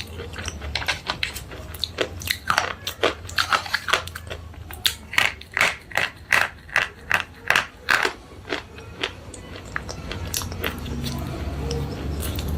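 A person chewing slate pencils in a run of crisp crunches. The crunches come fastest and loudest in the middle, about three a second, then thin out to a few near the end.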